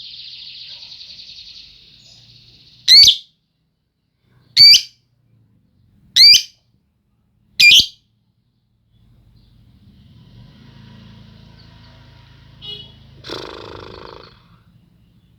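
Pet lovebird calling: a quick high chattering trill, then four loud, shrill, sweeping screeches about a second and a half apart. A faint low hum and a brief raspy burst follow near the end.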